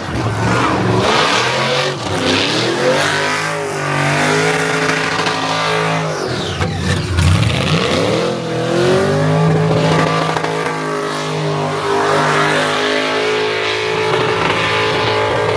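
Car engine, likely an LS V8, revving hard, its pitch dropping and climbing a few times between long stretches held steady at high revs.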